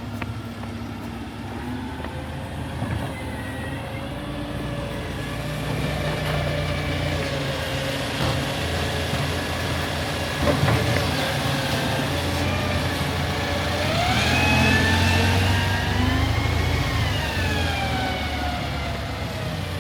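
Garbage truck's diesel engine running, its pitch climbing to a peak about fifteen seconds in and then falling back. A sharp knock comes about ten and a half seconds in.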